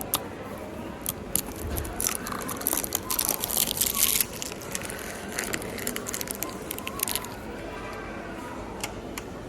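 A run of sharp clicks and taps from objects being handled, densest about three to four seconds in, over a faint background voice.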